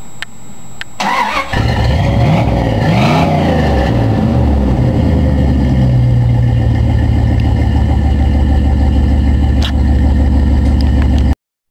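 1999 Dodge Dakota engine starting through a Flowmaster exhaust: it catches about a second and a half in, blips the revs up and down a couple of times, then settles into a steady, loud idle. The sound cuts off abruptly near the end.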